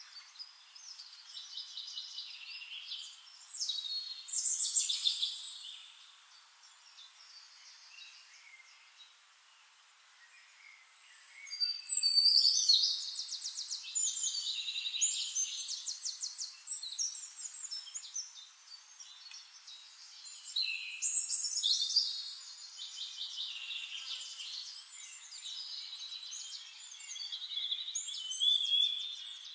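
Birdsong: phrases of high, rapid chirps and trills broken by short pauses, with a near-quiet gap of a few seconds before the loudest trilling about twelve seconds in.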